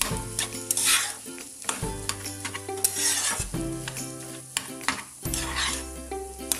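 Spatula stirring and scraping spiced boiled potato filling frying in a nonstick pan, with a light sizzle under the strokes. Background music with held bass notes plays underneath.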